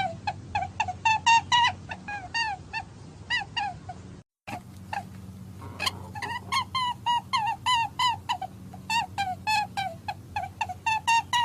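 Rabbit squeaking: a rapid series of short, high squeaks, about four a second, with a brief break just after four seconds.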